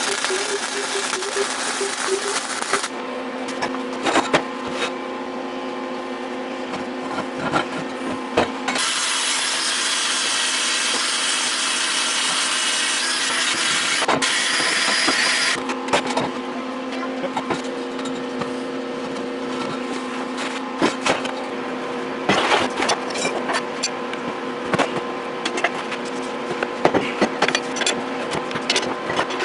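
Metalworking on steel tubing: sawing and scraping strokes, a stretch of steady hiss in the middle, and scattered sharp taps and clanks near the end, over a steady hum.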